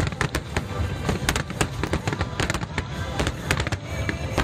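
Fireworks display: a dense run of sharp bangs and crackles, several a second, over a continuous low rumble.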